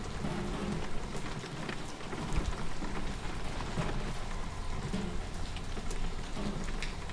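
Steady rain falling, with many individual drops tapping close by over a low rumble.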